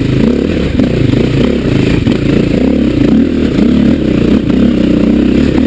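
Dirt bike engine revving up and down over and over as the throttle is worked climbing a rough, rocky trail.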